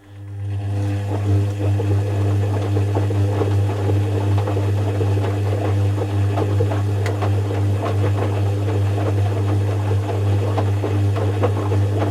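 Zanussi FC1000 compact washing machine running: a loud, steady hum with a clattering rattle over it. It starts at once and cuts off after about twelve seconds.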